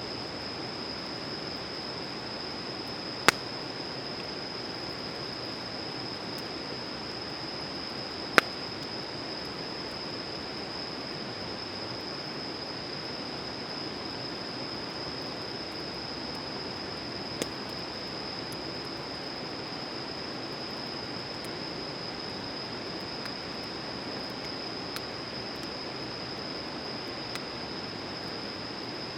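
Campfire burning with a steady rushing hiss, broken by two loud, sharp pops about three and eight seconds in and a few fainter ticks later. A steady high-pitched whine runs underneath.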